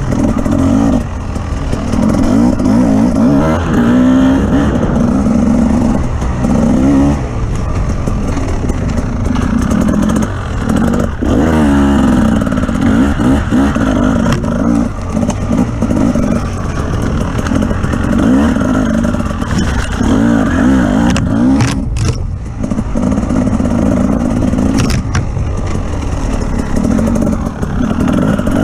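Off-road vehicle engine running under load, its revs rising and falling again and again, over a continuous rumble and rattle from driving over rough ground.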